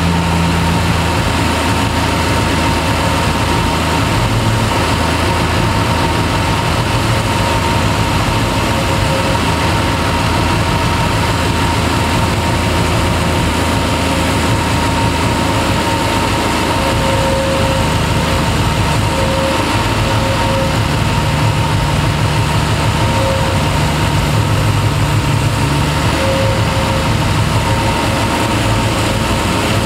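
Triumph TR6's straight-six engine idling steadily on its twin Zenith-Stromberg carburettors during carburettor tuning.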